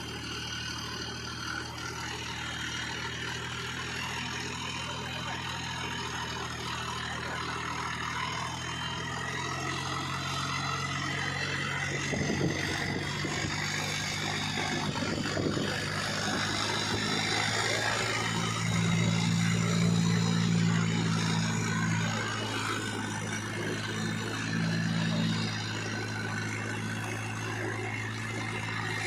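Mahindra tractor's diesel engine running under load while pulling a heavily loaded sugarcane trolley: a steady low engine drone that grows louder for a few seconds past the middle and again briefly near the end.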